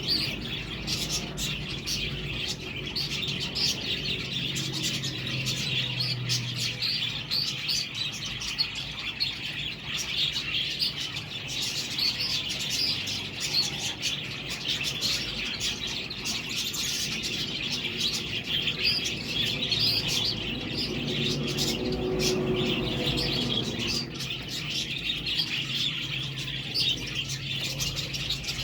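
Budgerigars chattering and chirping together in an unbroken stream of short, overlapping high calls, like a busy flock.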